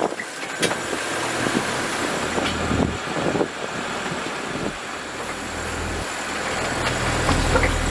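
A sailing yacht's inboard engine running under way, a steady low rumble under wind and water noise. The rumble grows stronger over the last few seconds.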